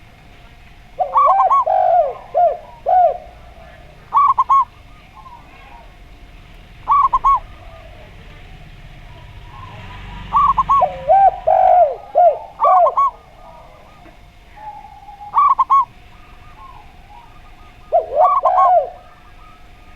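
Zebra dove and spotted dove cooing in turns: short clusters of mellow coo notes, some higher and some lower and bending, coming back every two to three seconds.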